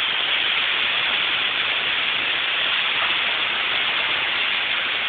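Very heavy rain pouring down in a steady, even hiss with no let-up.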